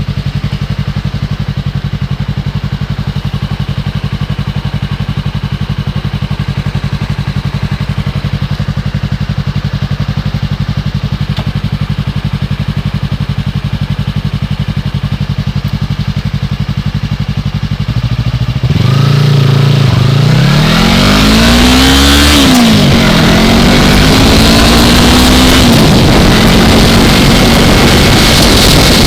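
A 2015 Yamaha R3's parallel-twin engine idles steadily. About 18 seconds in it pulls away, revving up and shifting up twice, as wind noise on the helmet microphone builds with speed.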